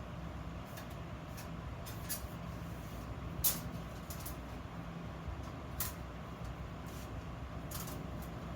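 A steady low hum with a few light clicks or taps scattered through it, the sharpest about three and a half seconds in and another near six seconds.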